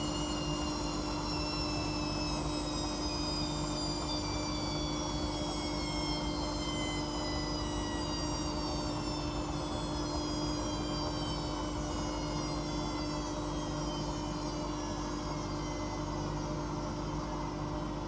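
Washing machine drum motor whining during a spin, its pitch falling slowly and steadily as the drum slows, over a constant low hum.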